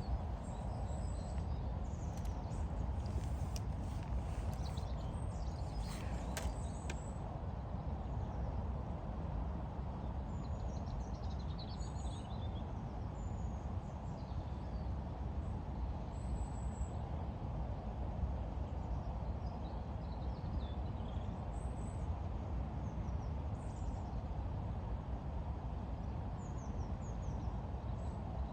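Steady low background noise with small birds chirping now and then, and a few sharp clicks about six seconds in.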